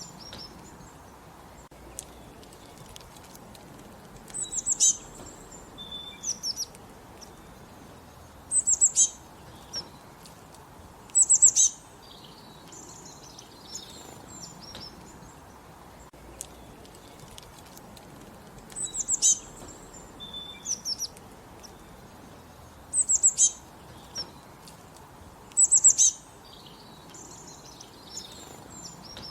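Songbird singing short phrases of quick, high chirps in clusters every few seconds, some much louder than others, over a faint steady hiss.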